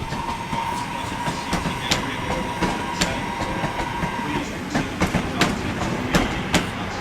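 Class 323 electric multiple unit moving along the platform, its wheels clicking over rail joints and points. A steady whine sounds over the running noise and stops about four seconds in.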